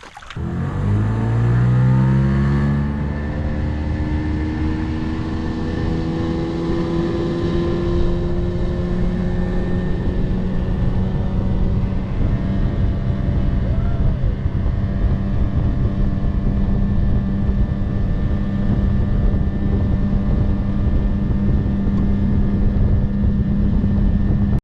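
Boat motor speeding up over the first couple of seconds, then running steadily at cruising speed.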